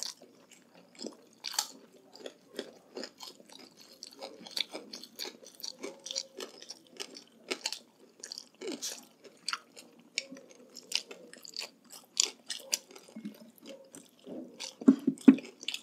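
Close-miked eating sounds: wet chewing and biting, broken by many short, crisp crunches, as balut and crunchy chicharon bagnet are eaten.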